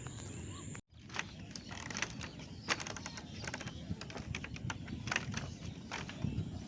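Irregular light clicks and knocks over low background noise, after a sudden cut to silence about a second in.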